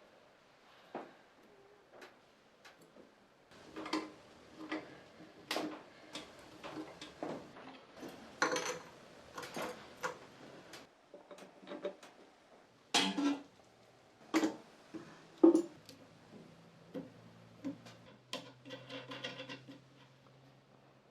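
Irregular knocks and clinks of metal parts and tools being handled on a workbench. A low steady hum comes in about two-thirds of the way through.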